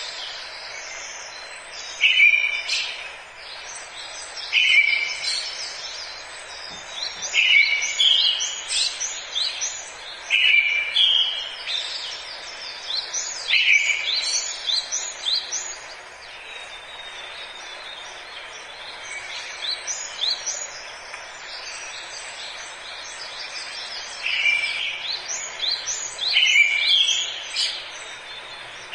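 Several birds singing in a forest: one bird repeats a short, clear phrase every two to three seconds, pausing for a while in the middle, while others chirp higher and faster around it. A steady soft hiss of forest background runs beneath.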